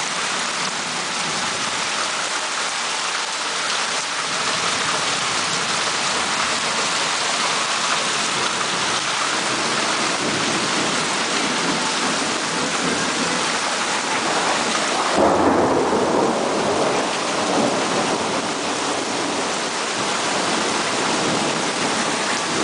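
Heavy rain pouring steadily onto the street, lawn and roofs in a downpour that is flooding the road. About two-thirds of the way in, a louder, deeper surge lasts roughly two seconds.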